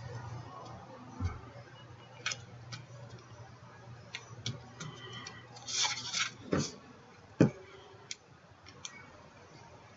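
Scattered light taps, clicks and rubs of paper and crafting tools handled on a tabletop while card mats are cut and glued, over a steady low hum. One sharper knock stands out about seven and a half seconds in.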